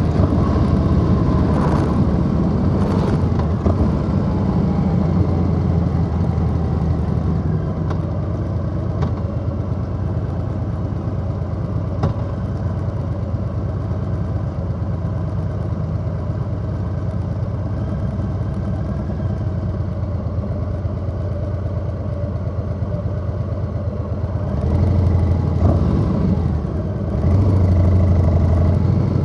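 Harley-Davidson Low Rider S V-twin running through a 2-into-1 exhaust while riding along at a steady cruise, with the throttle opened up twice near the end.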